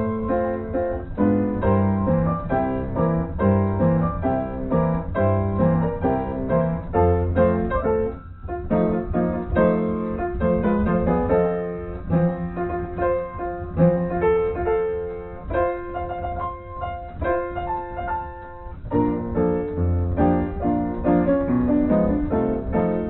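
Piano music: many notes played in quick succession with a steady pulse, with a brief pause about eight seconds in.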